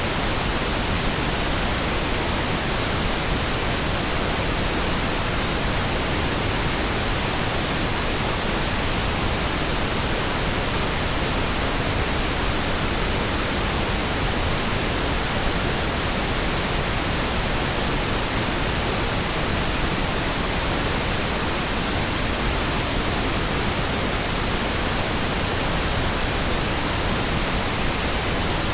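Synthetic pink noise: a smooth, steady hiss spread evenly from low rumble to high treble, with no changes.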